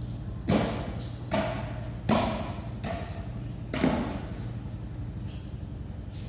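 Five sharp knocks at uneven intervals of about a second, each with a short fading tail, over a steady low hum.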